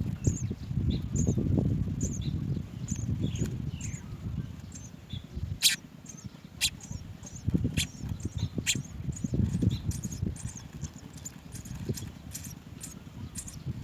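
House sparrow chicks chirping: short high cheeps, repeated, over a constant low rumbling noise, with a few sharp clicks about a second apart near the middle.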